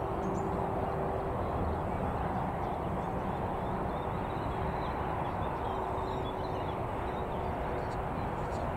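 Steady outdoor background rumble at a railway crossing, with faint short bird chirps.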